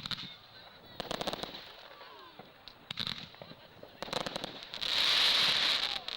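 Fireworks going off: several quick crackling volleys of pops, then a loud hissing rush lasting about a second near the end.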